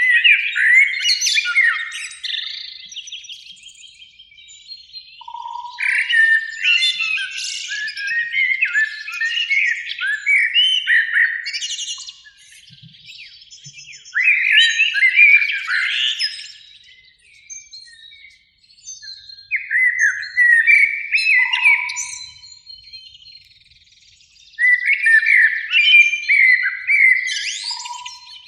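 Common blackbird singing: fluty, warbling phrases that end in higher, squeaky twitters, given about five times with short pauses between them.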